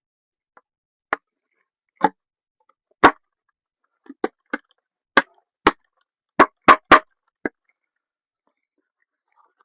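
About a dozen sharp, separate knocks or clinks at an irregular pace, with the loudest coming in a quick run of three about two-thirds of the way through.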